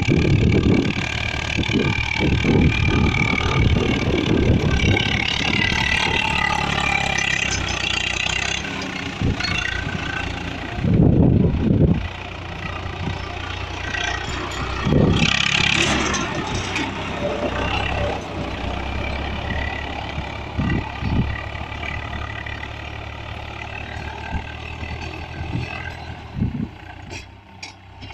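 Tractor engine running, with people's voices and gusts of wind on the microphone.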